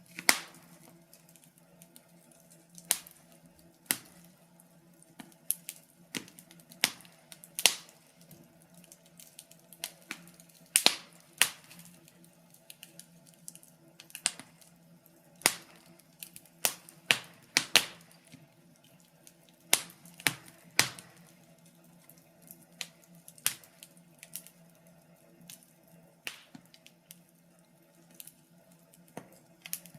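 Wood fire crackling: irregular sharp pops and snaps at uneven intervals, a dozen or so louder than the rest, over a faint steady low hum.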